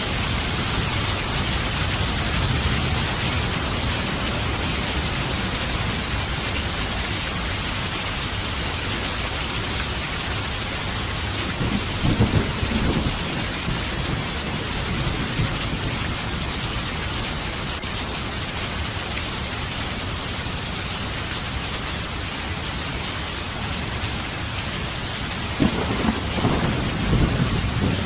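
Steady heavy rain falling, with rumbles of thunder: one about twelve seconds in and another, with sharper cracks, near the end.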